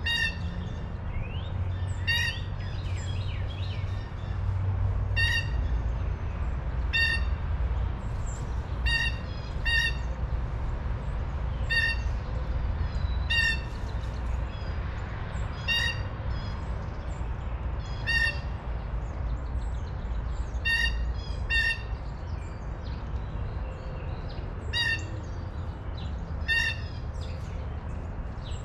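A bird giving the same short call over and over, roughly every one to two seconds, sometimes two in quick succession, over a steady low rumble.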